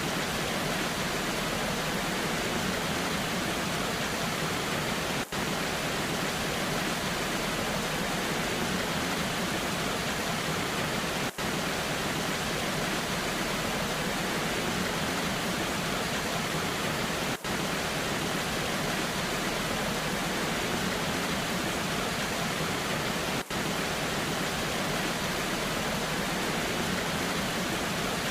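Waterfall rushing steadily, an even hiss of falling water, with a momentary dip in the sound about every six seconds.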